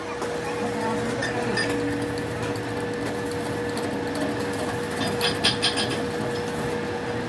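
A workshop machine running with a steady hum, with scattered clicks and a quick run of sharp metallic clicks about five seconds in.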